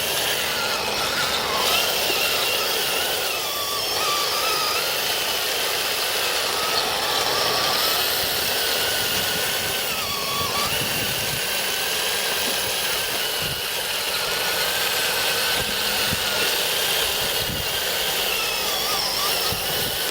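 Radio-controlled M26 tank with metal tracks driving: small electric drive motors and gearboxes whine steadily, their pitch wavering up and down with throttle, over a continuous mechanical rattle.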